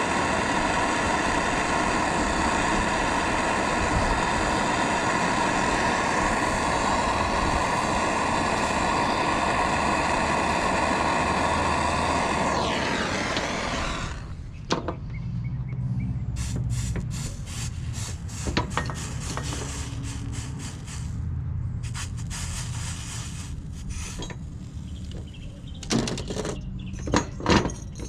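Soldering torch flame hissing steadily with a steady whistling tone for about thirteen seconds. The tone then drops in pitch and the flame cuts out as the gas is shut off. Afterwards there is a low rumble and scattered clicks and knocks from handling the tools.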